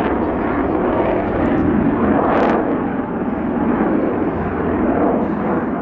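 Hawker Hunter's Rolls-Royce Avon jet engine running as the jet makes a slow pass, a steady loud roar.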